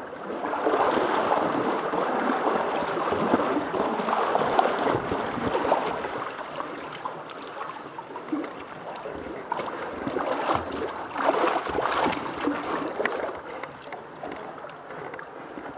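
Water splashing and sloshing unevenly in a canyon creek pool, louder in the first half and again briefly about eleven seconds in.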